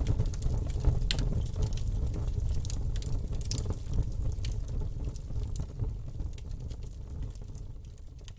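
Wood fire in a fireplace crackling and popping over a low steady rumble, gradually fading out.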